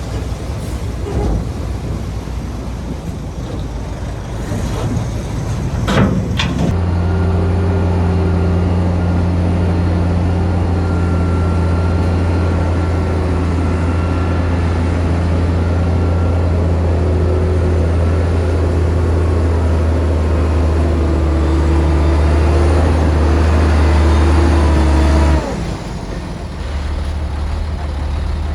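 Heavy diesel engine of earthmoving machinery running. A couple of sharp knocks sound about six seconds in. A steady deep drone starts just after them and cuts off abruptly near the end, leaving a lower rumble.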